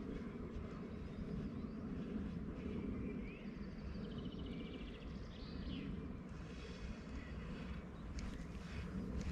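Steady low rumble of wind buffeting the microphone, with small birds chirping over it and a quick bird trill about four seconds in.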